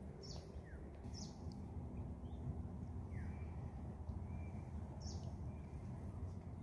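Wild birds calling: short chirps, some sliding down and some up, about once a second. Under them runs a steady low rumble.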